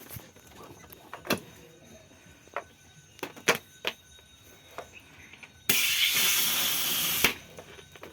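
Pressurised air escaping in one steady hiss lasting about a second and a half, near the end. Before it come scattered metal clicks and knocks of tyre-repair work.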